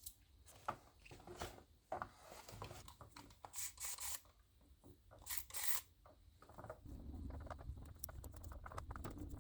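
Faint handling sounds of pinning a doll's hair onto cut drinking-straw rollers with bobby pins: scattered small clicks and rustles, with two brief louder rustling hisses midway.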